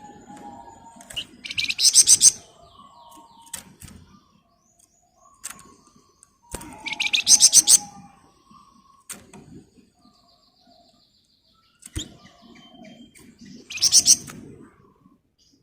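A flamboyan songbird singing loud, very rapid high-pitched rattling trills, the tight 'ngebren' bursts, three times: about a second in, around the middle, and near the end. Softer chirps and short notes come between the bursts.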